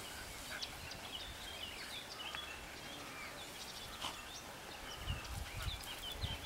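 Quiet open-air background with small birds singing, many short high chirps and whistles scattered throughout. A few low bumps come near the end.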